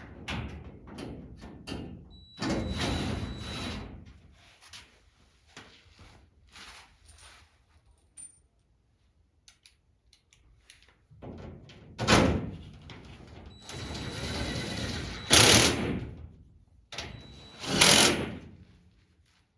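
Handheld power drill run in about four short bursts, with a steady motor whine in some of them, while body panel holes are drilled or bolts driven. Small clicks and knocks from handling the parts come between the bursts.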